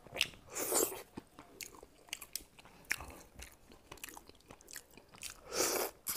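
A person chewing a mouthful of rice and fish close to a clip-on microphone, with many short wet mouth clicks and smacks. Two louder noisy bursts of about half a second come, one near the start and one near the end.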